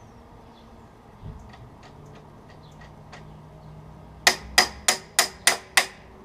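A hammer strikes a steel 1/2-inch socket extension six times in quick succession, about three blows a second, each with a bright metallic ring, knocking against the motorcycle's wheel axle to drive it out. A faint dull thump comes about a second in.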